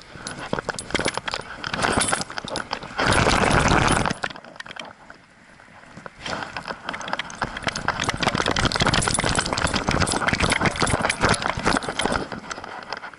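Rapid metallic jangling and clicking, broken by a loud rush of noise about three seconds in, then a quieter stretch before the clatter picks up again.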